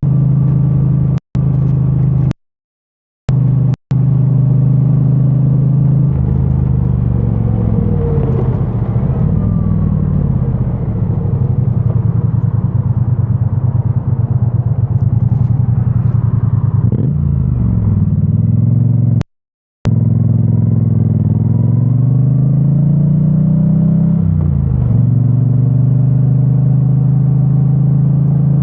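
2022 Triumph Bonneville T100's 900 cc parallel-twin engine through its stock exhaust: steady idle at first, then pulling away, the revs rising and dropping several times through gear changes. The sound cuts out briefly a few times near the start and once again later.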